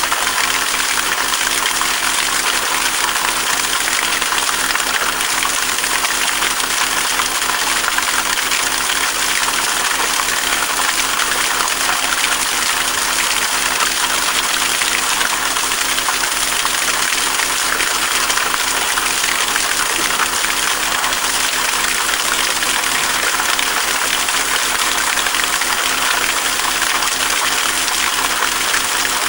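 A stream flowing: a steady, unbroken rush of water.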